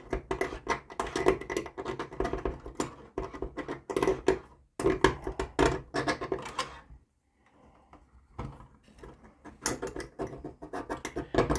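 Rapid scratching and clicking of HO model railroad track being handled and bent aside against the roundhouse's plastic floor, with a short quiet stretch about seven seconds in.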